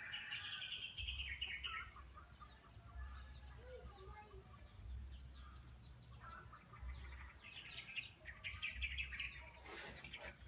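Small birds chirping in short, high calls, busiest at the start and again in the last few seconds.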